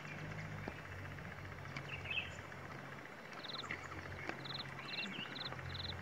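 Short, high-pitched calls of a small background bird, repeated about twice a second from about three seconds in, over a low steady hum.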